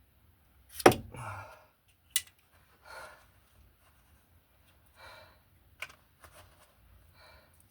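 Hand-work handling noises: a loud knock about a second in, a sharp click a second later, and a few short breathy exhales between smaller clicks.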